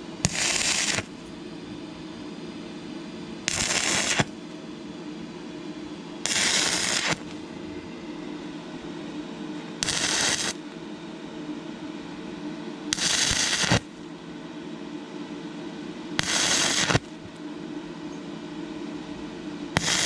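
Stick-welding arc from an inverter welder burning a 6011 rod, struck six times in short tacks: each tack is a crackling sizzle under a second long, starting with a sharp snap, about every three seconds, over a steady hum.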